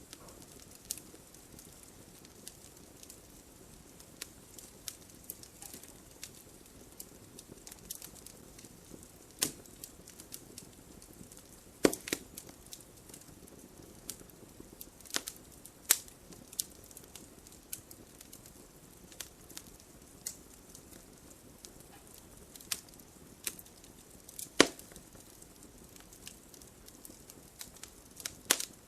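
Wood campfire burning, with a soft steady hiss broken by irregular crackles and sharp pops of the burning wood, a few of them much louder than the rest.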